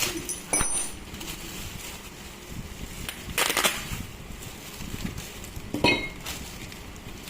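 Metal tools and parts clinking and knocking against each other during a repair, in three separate knocks about half a second in, around three and a half seconds and near six seconds, some ringing briefly.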